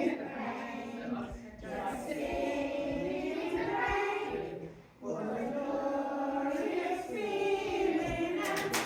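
A group of voices singing together in a chant-like, unaccompanied action song, with a short break about halfway through. A few sharp taps near the end.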